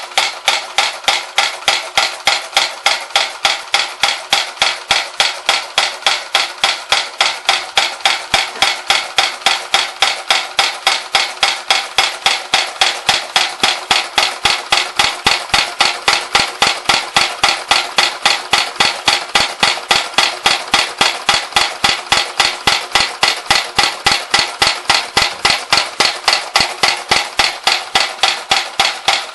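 Bing toy hammer accessory, driven by a Bing overtype model steam engine, striking metal over and over in a steady rhythm, about three strikes a second, each with a short metallic ring.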